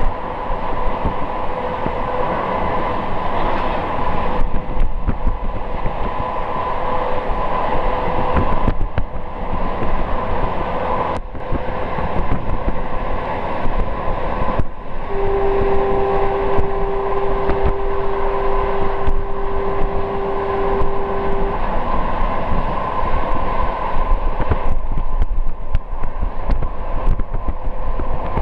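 Passenger train running, heard from inside a carriage at the window: steady rumble and rattle of the wheels and running gear, with a faint steady whine. About halfway through, one long horn note sounds, held steady for about six seconds.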